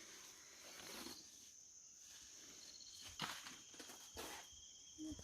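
Faint outdoor background of insects: a steady high-pitched drone with short, quick chirping trills now and then. A single sharp click about three seconds in.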